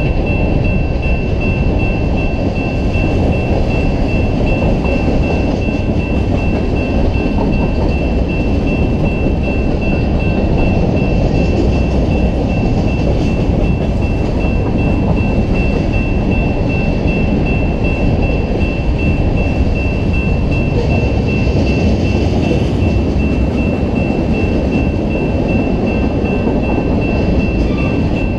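Freight train cars rolling past at close range: a steady, loud rumble of steel wheels on rail, with a thin, steady high whine running over it.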